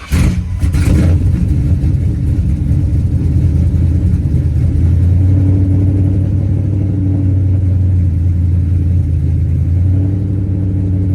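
Ford Crown Victoria V8 engine catching just as it starts, then idling steadily and loud, with the exhaust hanging off the car so it runs unmuffled and leaking.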